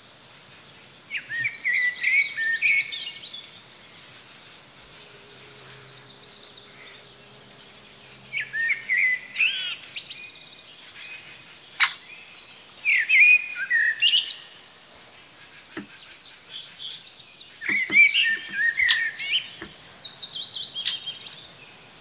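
A bird singing the same short song phrase over and over, a few seconds apart, with quieter stretches between. One sharp click comes about twelve seconds in.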